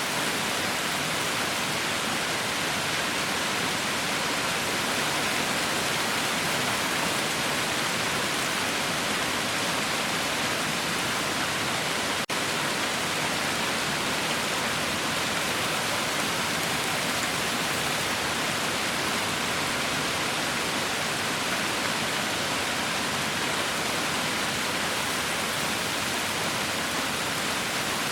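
Heavy rain falling steadily, a dense even hiss with no let-up, with a momentary dip about twelve seconds in.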